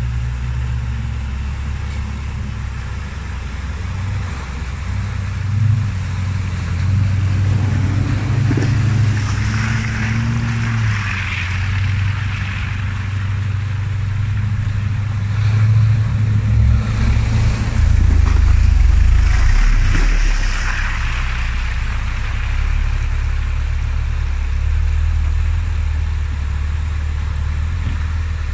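Off-road 4x4's engine running and revving, its pitch rising and falling as the throttle changes. Two stretches of rushing noise rise over it, about a third of the way in and again past the middle.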